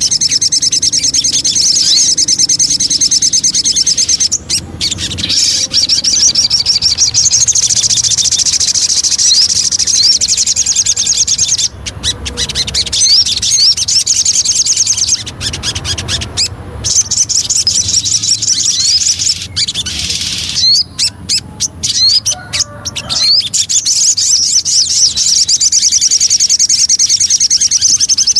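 Sogon bird song: a fast, high-pitched run of rapidly repeated chirps, broken by a few short pauses midway. A lure track meant to get a kept sogon singing.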